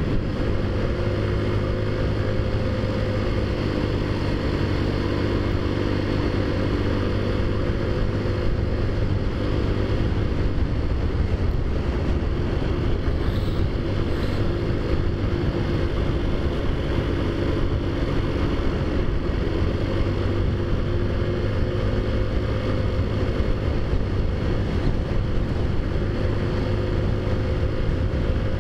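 Taotao Zummer scooter's four-stroke 50cc engine, fitted with a big-bore kit and aftermarket exhaust, running steadily at cruising speed, heard from the rider's seat. Its hum wavers only slightly in pitch, over a low rumble.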